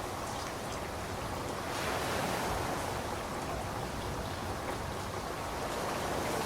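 Steady rainfall: an even hiss of rain with faint, scattered drop patter.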